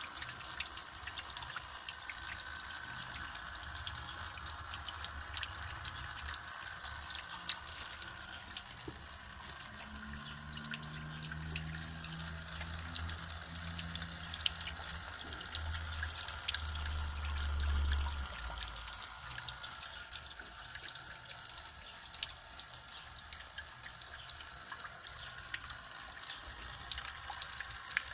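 Water trickling and dripping steadily into a small cement-basin garden fountain, circulated by a small submersible aquarium pump through a hose. A low rumble swells about halfway through and fades soon after.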